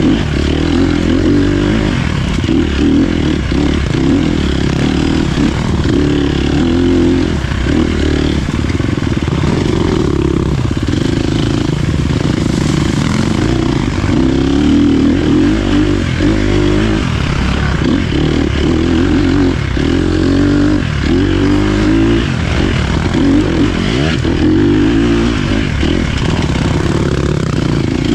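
Dirt bike engine running under load while riding an off-road trail. The pitch keeps rising and falling as the throttle opens and closes.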